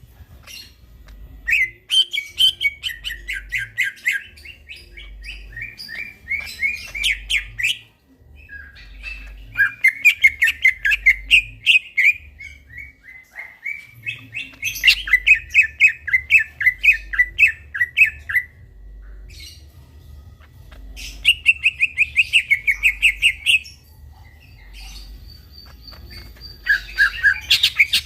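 Green leafbird (cucak ijo) singing in bursts of rapid, repeated chattering notes, about five phrases of a few seconds each with short pauses between.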